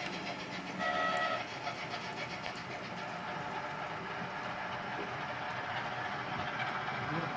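OO gauge model trains running on the layout: a steady whirr of small motors and wheels on track, with faint ticks. About a second in, a short high tone sounds for about half a second.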